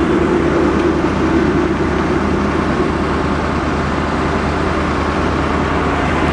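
Propane-fuelled Ford 6.8 V10 of a Blue Bird Vision bus idling steadily as a low, even hum under a broad rushing noise, with a mid-pitched drone that fades away over the first few seconds.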